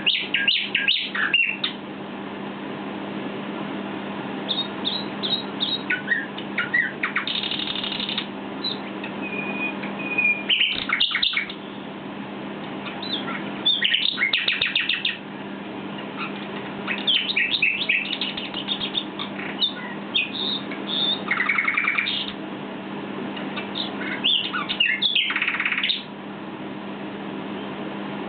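Common nightingale singing: separate phrases of fast trills, rapid repeated notes and whistles, each a second or two long, with short pauses between them. A steady low hum runs underneath.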